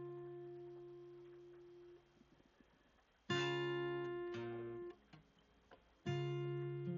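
Background music: slow acoustic guitar chords, each strummed once and left to ring out, about three seconds apart.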